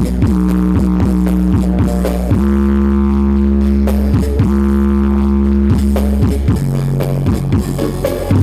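Loud music played over a large carnival sound system: a deep, droning bass under long held notes, with a steady beat at first and the notes dropping lower near the end.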